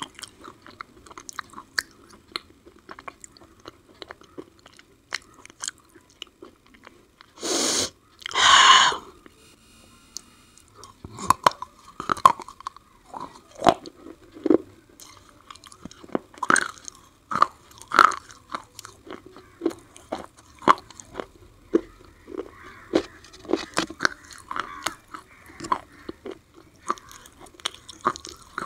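Close-miked biting and chewing of black slate pencil sticks coated in white paste: a string of short, sharp crunches. About eight seconds in come two louder, longer noisy bursts.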